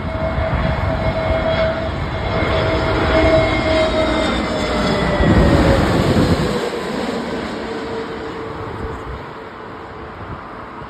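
Boeing airliner's jet engines passing close by: a loud rumble with a high whine that drops in pitch about five seconds in as it goes past, then fades away.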